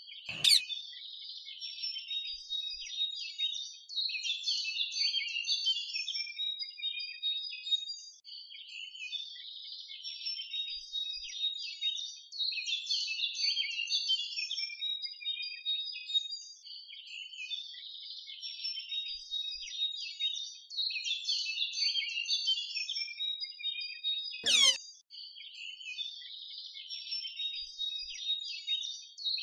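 Many small birds chirping and twittering continuously, with a sharp click about half a second in and another near the end.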